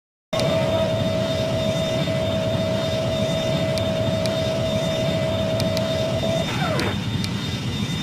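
Jet airliner engines running: a steady rumble with a whine held at one pitch, which slides down in pitch about six and a half seconds in.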